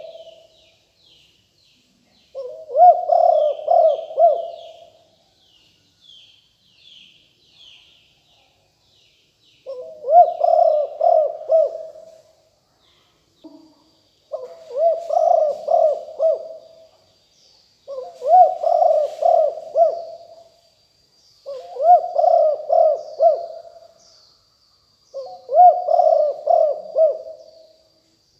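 Spotted dove cooing, its phrase repeated six times about every three to four seconds, the cooing used as a decoy call. Faint small-bird chirps sound behind it, and a thin steady high tone starts about halfway through.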